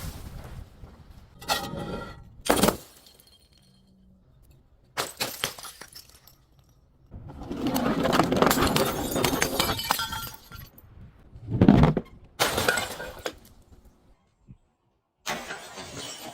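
Glass being smashed and crushed: a series of separate breaks and clinks, with a long stretch of dense crunching from about seven to ten seconds in.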